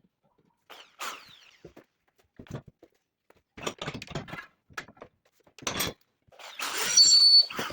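Scattered knocks and clicks of metal parts and tools being handled, then a louder continuous grating noise with a high whine that starts about six and a half seconds in.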